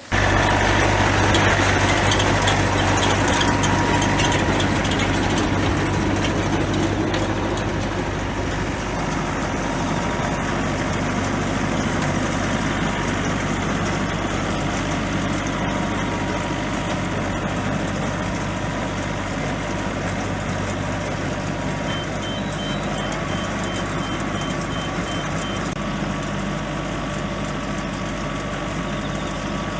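Tractor engine running steadily while driving a hay baler's machinery, with a short run of rapid high-pitched beeps about three-quarters of the way through.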